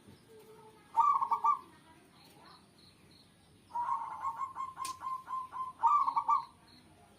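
Zebra dove (perkutut) cooing. A short burst of rapid notes comes about a second in, then a longer phrase of quick pulsing coos starts about four seconds in and ends in a few strong notes.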